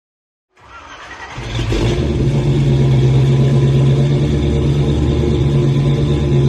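Car engine fading in and then running steadily with a deep, even drone.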